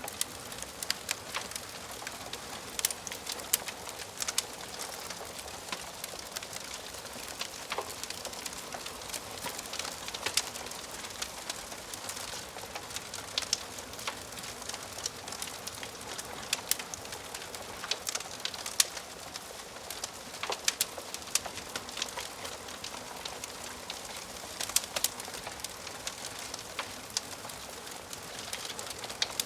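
Wood fire crackling in a fireplace: irregular sharp pops and snaps, a few each second, over a steady soft hiss of burning wood.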